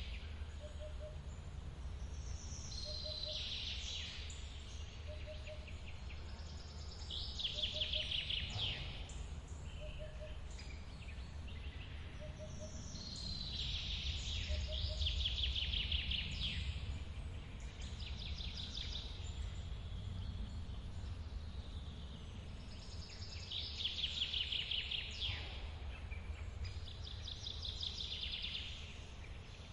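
Forest birdsong: a bird sings a fast trilled phrase every few seconds over a steady low rush of running water from a waterfall. A soft short note repeats about once a second during the first half.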